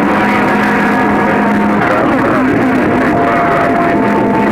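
CB sideband radio receiver hissing between transmissions, with steady heterodyne whistles and faint, garbled distant voices coming through weak skip conditions.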